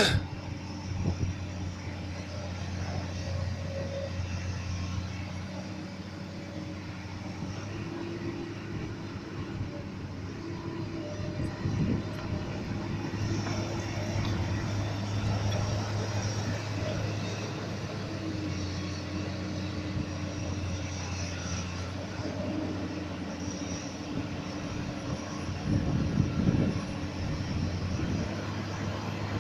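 Komatsu PC200 excavator's diesel engine running steadily as it digs, its note shifting up and down now and then with the hydraulic load. A sharp knock comes right at the start, and a louder rough clatter comes near the end.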